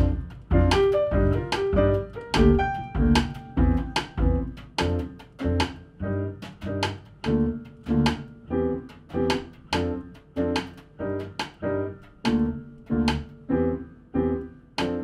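Jazz piano trio playing live: piano and double bass over drums, keeping a steady pulse of about two beats a second.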